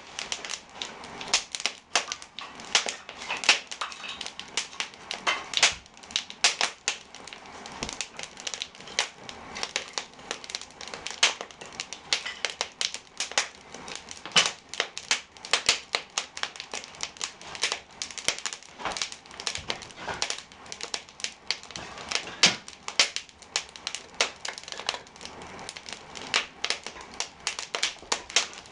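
Firewood burning in an open brick fireplace, crackling and popping with many irregular sharp snaps each second over a soft hiss of flame.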